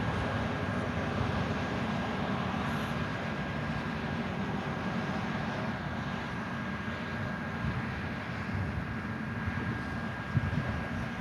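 Steady vehicle engine noise, a low hum carrying a faint constant high whine, with a short sharp knock near the end.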